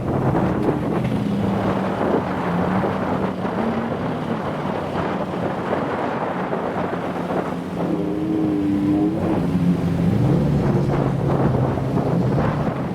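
Car engines running steadily at low revs, with wind noise on the microphone; about eight seconds in, a higher engine note briefly joins and rises a little.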